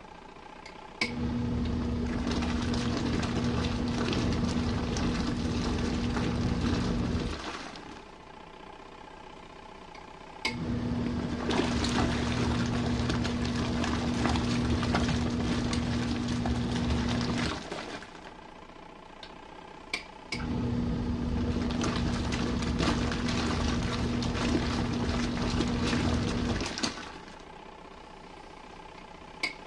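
Compact RV washing machine in its main wash: the motor agitates with a steady hum and sloshing water in runs of about six to seven seconds, stopping for about three seconds between runs, three runs in all, with a short click as each run starts.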